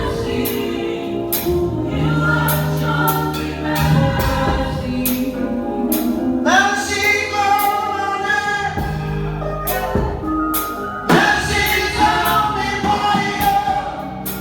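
Live gospel music: a choir singing over a band with bass and regular cymbal strikes.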